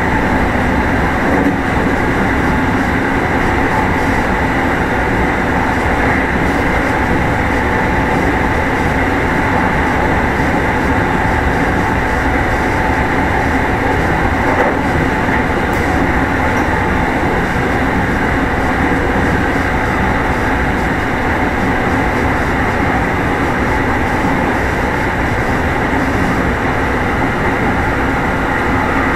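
Meitetsu 1000 series electric train running at a steady speed, heard inside motor car Mo 1066. There is an even rumble of wheels on rail with a constant hum from the running gear.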